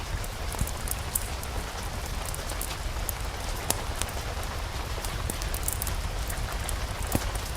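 Steady rain falling, with scattered sharp crackles and a low steady rumble underneath.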